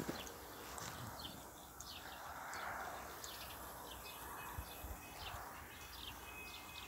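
Small birds chirping, many short high chirps repeated over a faint steady outdoor background hiss.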